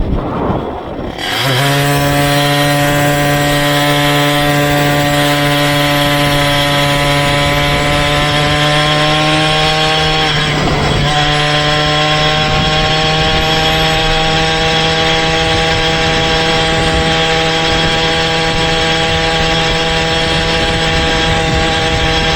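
A motorized bicycle's small engine running at a steady high speed, a buzzing drone that comes in about a second and a half in and holds, with a brief dip partway through.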